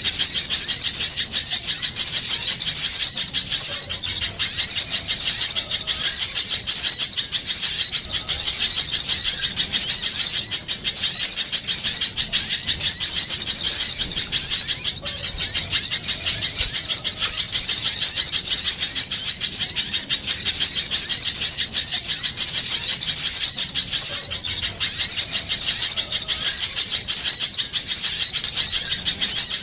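Dense, continuous chorus of many small birds chattering and chirping at high pitch without a break: a lure recording of noisy small birds, played to draw small birds in for trapping.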